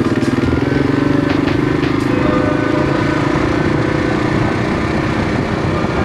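Kawasaki KLR650 single-cylinder motorcycle engine running steadily under way.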